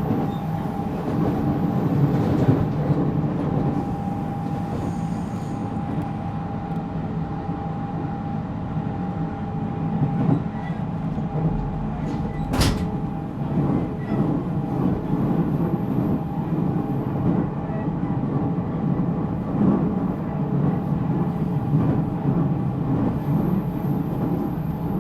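JR Central 313 series electric train, heard from inside the motor car MoHa 313-7, running along the line: a continuous rolling rumble with a steady whine on top. One sharp knock comes about halfway through.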